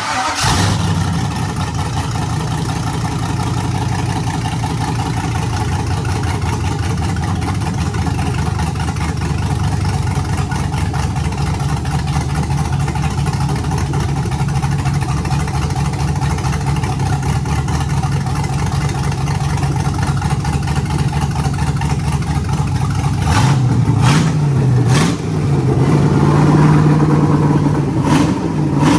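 Chevrolet 5.3 LS V8 with a Brian Tooley Stage 2 truck cam starting and running for the first time after the engine swap. It catches abruptly and settles into a steady idle, then is revved in a few short blips and held at higher revs near the end.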